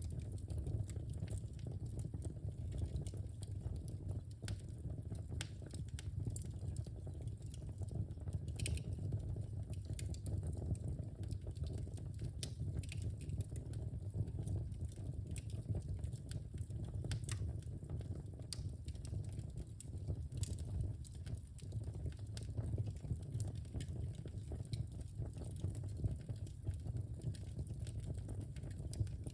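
Wood fire in a fireplace crackling, with frequent irregular sharp pops and snaps over a steady low rumble of burning flames.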